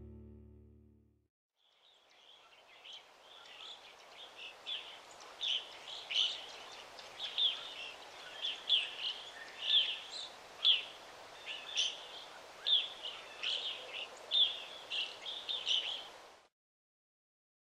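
Small birds chirping: short, high chirps repeating one to two times a second over a steady outdoor hiss. The ambience fades in about two seconds in and cuts off abruptly near the end.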